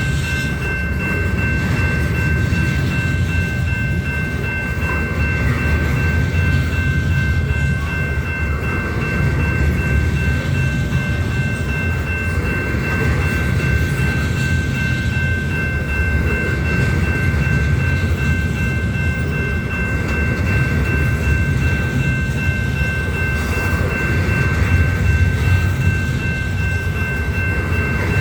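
Union Pacific train rolling past, a steady loud rumble of wheels on rail, with thin steady high-pitched tones held throughout.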